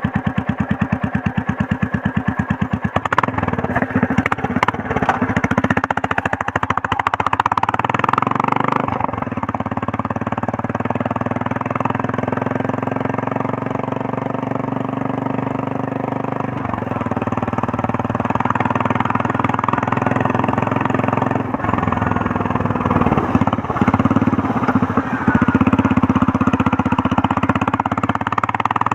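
Royal Enfield Meteor 350's single-cylinder engine and exhaust. For about three seconds it gives an even, rapid thumping at idle, then revs and runs under load as the motorcycle is ridden, its pitch rising and falling with the throttle.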